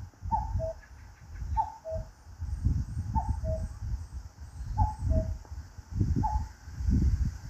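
A bird repeating a two-note call five times, a higher note dropping to a lower one, about every second and a half. Uneven low rumble runs beneath it.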